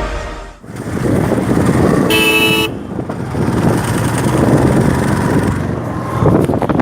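Road traffic noise heard from a moving motorbike, with a vehicle horn sounding once for about half a second, about two seconds in.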